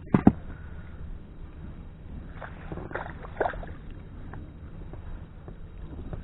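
Knocks and creaks in a small inflatable boat: a sharp double knock right at the start, then a few lighter knocks with a short squeak about three seconds in, over a low steady wind rumble.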